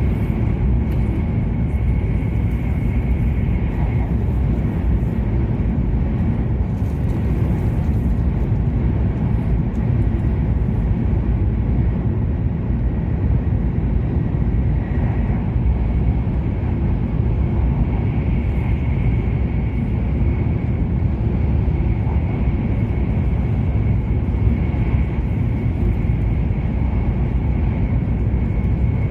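Steady running noise of an E7 series Shinkansen at speed, heard from inside the passenger cabin: a deep, even rumble. Over it sits a faint high steady tone that fades out about four seconds in and comes back later.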